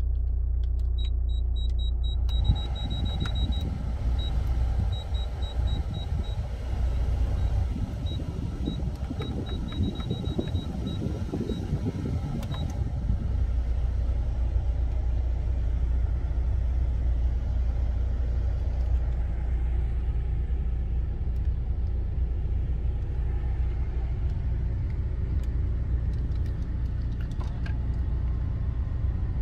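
Hyundai Terracan JX290's 2.9-litre diesel engine idling steadily, heard from inside the cabin. Over the first dozen seconds a string of short high beeps sounds as the climate-control buttons are pressed.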